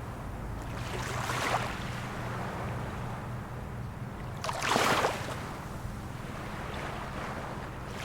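Small waves of a calm sea lapping and splashing against the shore, two splashes standing out, about a second in and near five seconds, over a faint low steady hum.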